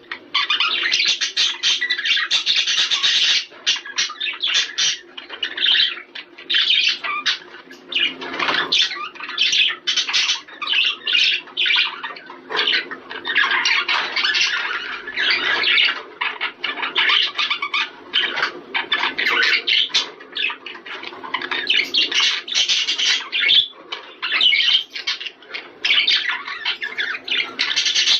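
A flock of budgerigars chattering and warbling without a break, many quick overlapping chirps and squawks: the breeding-season chatter used to stimulate budgies to mate.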